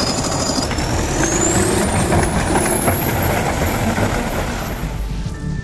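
TDT-55 skidder's diesel engine running loud and rough in deep cold, with a high whine that climbs in pitch over the first few seconds. The sound changes abruptly near the end.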